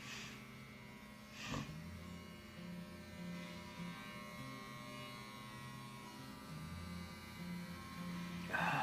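Electric hair clippers buzzing steadily while shaving a head, with a brief louder noise near the end.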